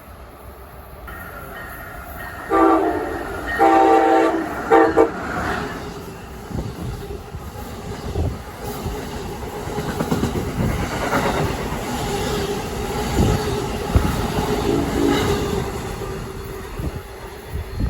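Train horn sounding three blasts in quick succession, the last one short, followed by the train passing close by with a steady rumble and wheel clatter on the rails.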